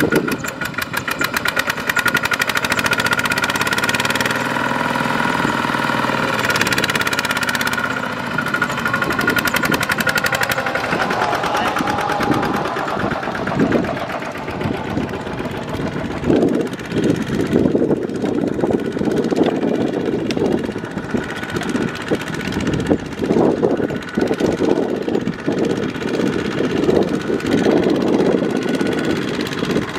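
Single-cylinder diesel engines of Kubota RT155-type walking tractors running with a fast, even knock. About halfway through the sound turns lower and more uneven.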